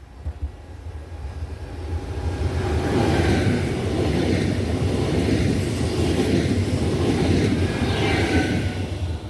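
A train passing on the line, its rumble building over the first few seconds and then holding loud, with brief higher-pitched wheel or rail sounds about three seconds in and again near the end.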